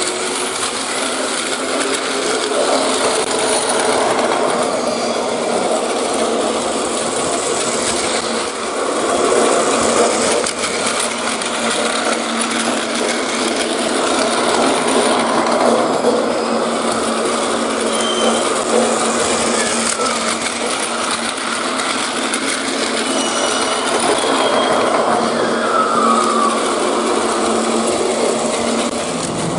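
Plarail toy trains running on plastic track: a steady whirring clatter of small battery motors and plastic wheels.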